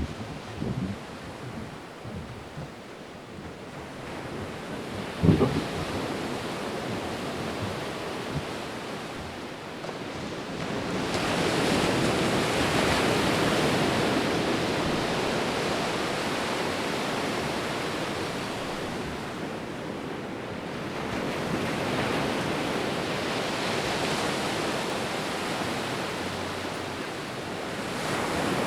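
Sea and wind: a steady rushing noise that swells and eases in long surges, with wind buffeting the microphone. A few short low knocks come in the first seconds.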